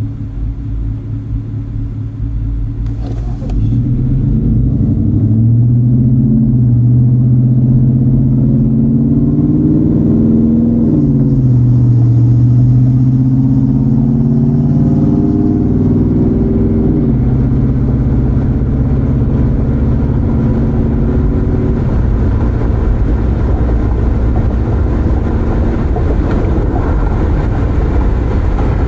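Car engine accelerating, heard through open windows: its pitch climbs, drops sharply twice as the gears shift up, then gives way to steady tyre and road noise at cruising speed.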